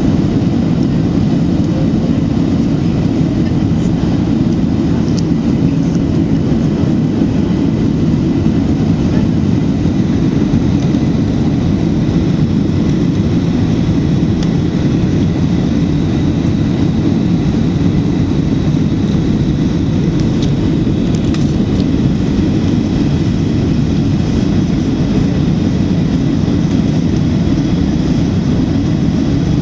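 Steady cabin noise inside a Boeing 737-900 on approach: the drone of its CFM56 turbofan engines and the rush of airflow, with a faint steady high whine over it.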